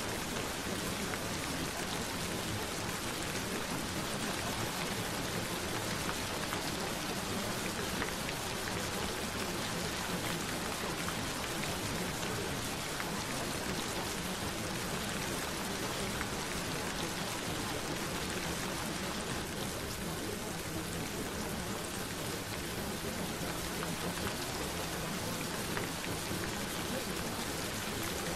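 Steady gentle rain: an even, continuous patter of raindrops without thunder.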